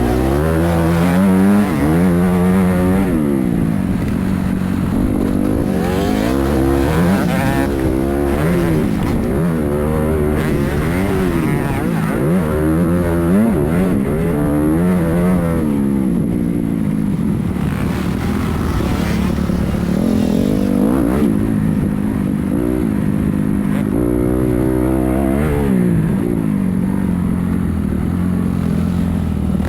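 Motocross bike engine revving up and down over and over, its pitch climbing and dropping every second or two.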